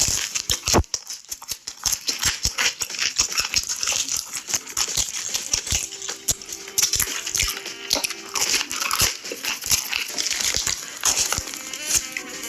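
Close-miked chewing of cheesy pizza: a dense run of wet smacking and crackling mouth sounds, irregular and continuous.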